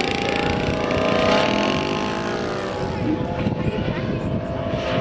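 Giant-scale RC F4U Corsair's Moki 250cc five-cylinder radial engine running in flight, its pitch dropping as the plane flies past, then running steady.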